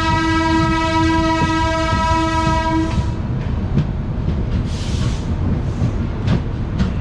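Train horn sounding one long steady blast that stops about three seconds in, over the rumble of the moving passenger train. After it the rumble carries on with a few sharp clicks of wheels over rail joints as the train nears the station.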